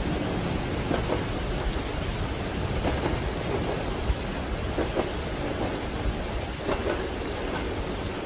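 Steady rain with the low rumble of a moving train and soft knocks of the wheels about every two seconds.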